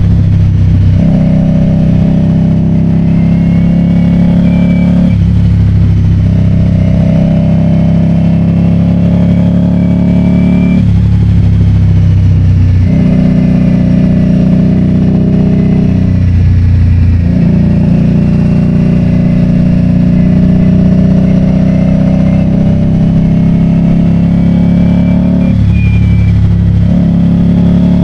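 Motor vehicle engine running under load, its steady note broken by brief dips every few seconds.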